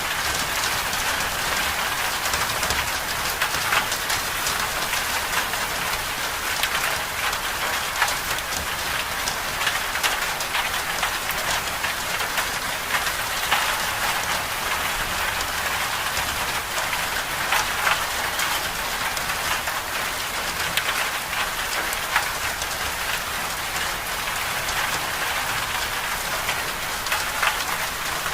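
Steady storm precipitation pattering on a surface: a dense, even hiss full of small sharp ticks, holding constant without let-up.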